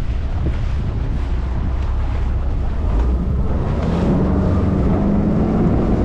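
Wind buffeting the microphone on a boat underway, with a steady outboard motor hum coming in about four seconds in.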